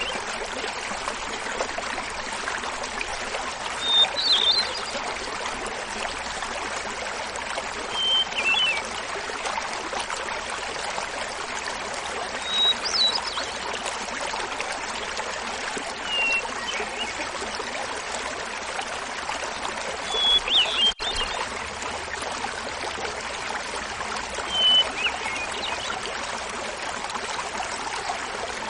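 Small mountain waterfall splashing steadily while a hermit thrush sings. There are six flute-like phrases, about every four seconds, each a held opening note followed by a quick fluttering run, and each pitched differently from the last.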